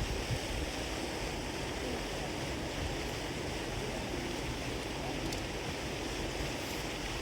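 Steady outdoor rushing noise, even throughout, with a faint tick about five seconds in.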